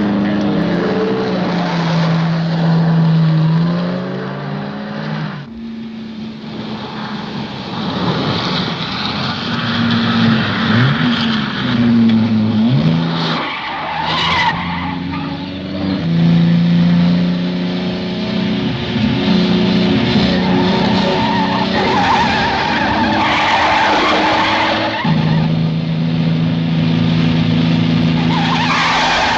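Film car-chase soundtrack: car engines running hard, their pitch stepping up and down as they rev and change gear, with tyres squealing through the corners.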